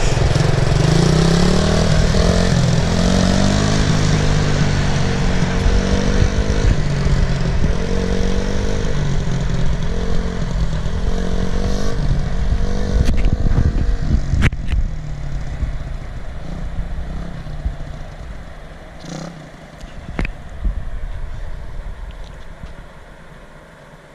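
Motorcycle engine pulling away in first gear, its pitch rising and falling with the throttle, then growing steadily quieter over the last ten seconds as the bike moves off, with a few sharp knocks along the way.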